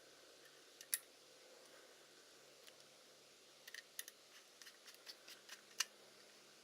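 Sharp small clicks and taps from handling small metal parts and tools, one about a second in, then a quick irregular run of clicks over about two seconds near the end.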